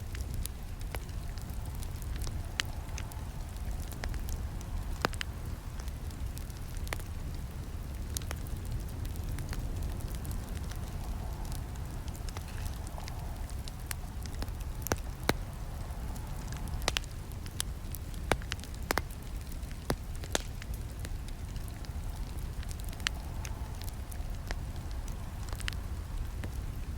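Campfire burning, with frequent irregular sharp crackles and snaps over a steady low rumble of the flames.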